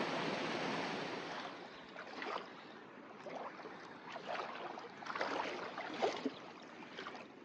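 Water splashing and sloshing in irregular bursts over a creek's running water. A steady rush fades away in the first second and a half.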